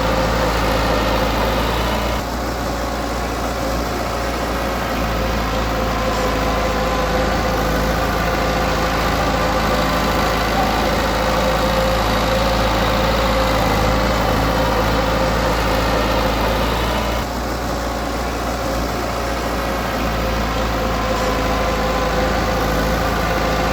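Diesel engine of a Komatsu D20P bulldozer running steadily. It eases off slightly about two seconds in and again about seventeen seconds in.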